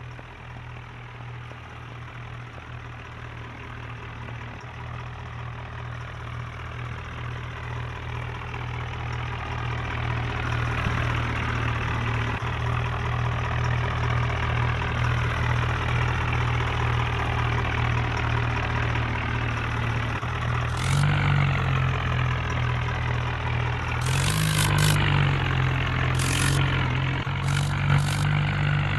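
Tractor diesel engine running, growing louder over the first ten seconds and then holding steady. It revs up briefly twice in the last third, with a few short sharp noises around the revs.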